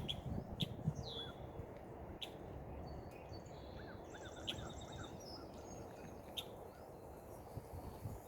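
Wild birds chirping: short sharp chirps every second or two, one falling call about a second in and a fast trill about halfway through, over steady low background noise.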